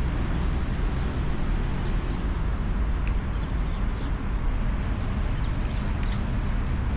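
Motorcycle engine running steadily, a continuous low rumble, with a few faint short bird chirps over it.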